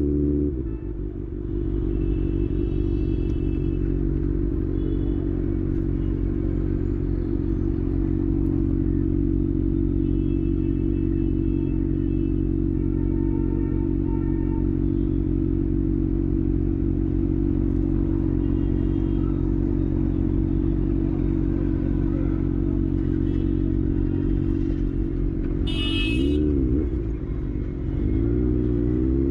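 Kawasaki ZX6R's inline-four engine running at a steady pitch after a drop in revs at the start. Near the end the revs quickly rise and fall, then begin climbing again.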